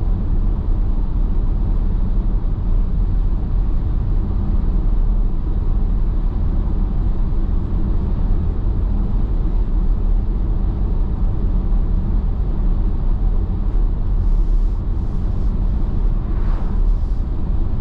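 Steady road noise inside a car cruising at highway speed: a low rumble of tyres and engine.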